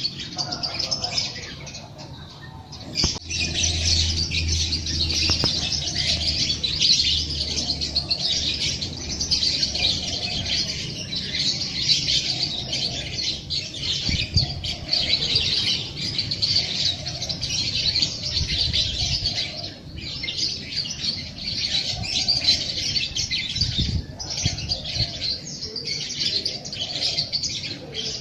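Dense chorus of many small songbirds chirping and twittering continuously, with a brief lull about two seconds in.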